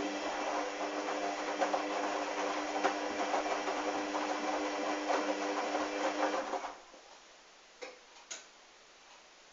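Hoover washing machine turning its drum during a wash: a steady motor whine with the wet towels sloshing, which stops about two-thirds of the way through, followed by two short clicks.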